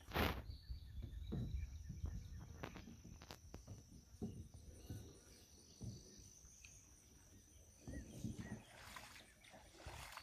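Scattered knocks and light water sounds around a kayak, the loudest knock just after the start, over a low rumble, with a faint, steady, high insect-like tone through the middle.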